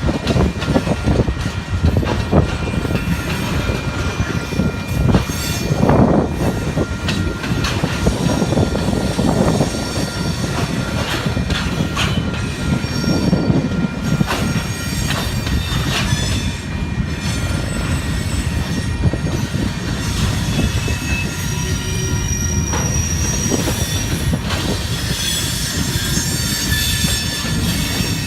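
Freight train cars rolling past, with a steady heavy rumble, wheel clatter, and thin high-pitched wheel squeal that comes and goes and grows stronger near the end.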